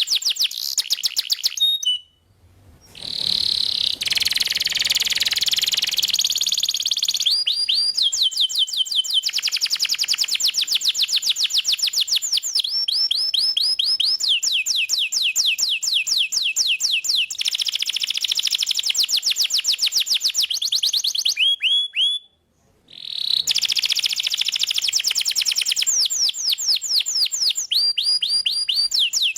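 Domestic canary singing fast trills of rapidly repeated high notes, switching from one trill to another every few seconds. The song breaks off briefly twice, about two seconds in and again about twenty-two seconds in.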